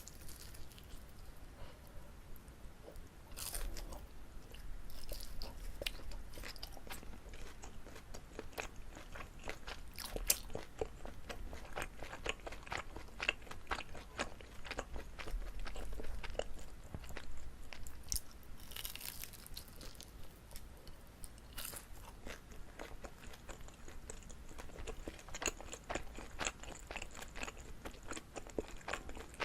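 Close-miked chewing of a chewy Korean rice cake (jijilkutteok) filled with gondre greens: a steady run of quick mouth clicks and smacks, with a few louder bites spread through.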